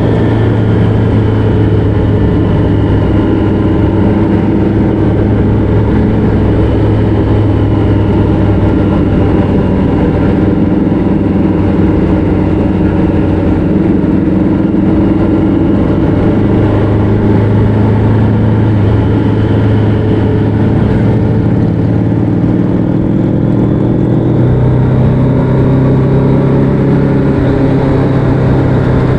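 Motorcycle engine running steadily at cruising speed on the open road, its note rising slightly a few seconds before the end.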